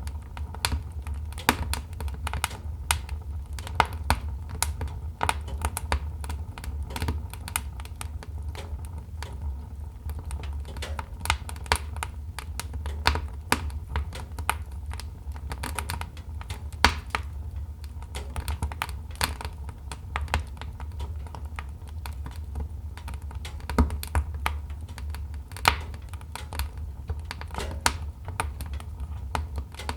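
Wood fire crackling: irregular sharp pops and snaps, some louder than others, over a steady low rumble.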